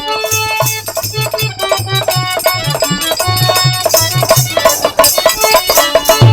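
Instrumental passage of Bhojpuri birha folk music: held melodic tones over a steady low drum beat with jingling hand percussion.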